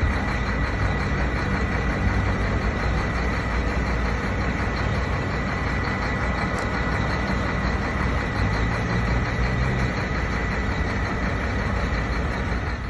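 An engine running steadily, with a steady high-pitched tone over it.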